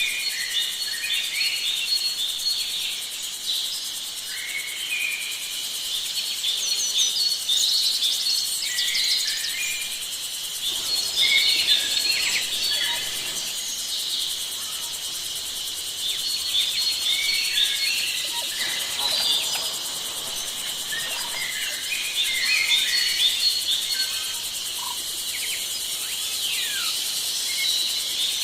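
Many short bird chirps and whistles over a steady, high-pitched drone of insects, with a few gliding whistles near the end.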